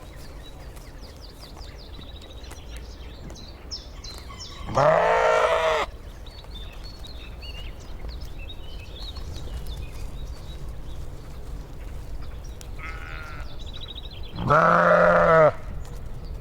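Penned livestock bleating: two loud bleats of about a second each, one about five seconds in and one near the end. Faint high chirping between them over a steady low background rumble.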